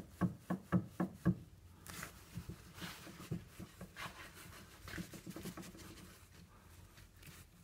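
Hyundai Santa Fe steering rack knocking: a quick run of about five sharp knocks in the first second and a half, then fainter clicking and rubbing. The rust-pitted rack shaft has worn out its bushing, and this play is the knock the car's owner will hear from the steering.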